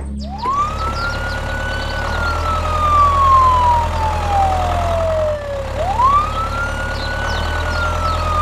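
A siren wailing: it winds up quickly, holds, then slowly falls, and winds up again near the end, over a steady low hum.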